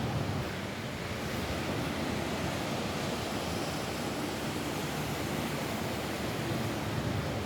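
Steady rain falling on a roof: a continuous, even rushing noise with no separate drops standing out.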